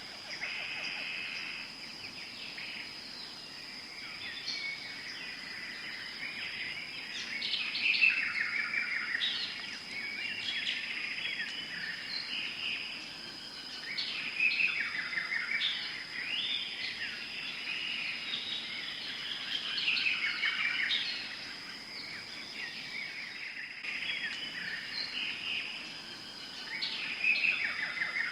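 Tropical forest ambience: several birds singing and calling in bursts of chirps and trills every few seconds, over a steady high-pitched tone and a soft background hiss.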